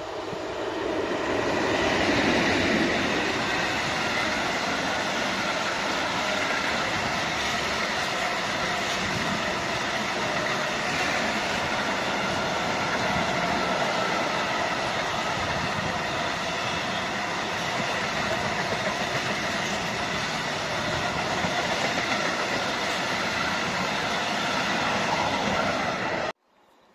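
Train hauled by a PKP EU07 electric locomotive passing close by: a steady rumble and clatter of wheels on the rails that swells over the first couple of seconds, holds even, then cuts off suddenly near the end.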